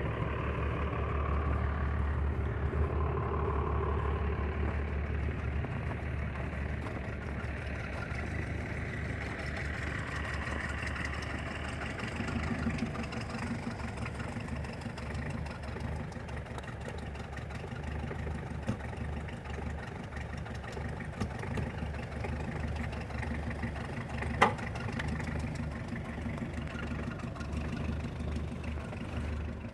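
Toyota Hilux engine idling steadily shortly after a cold start. There is one sharp click about two-thirds of the way through.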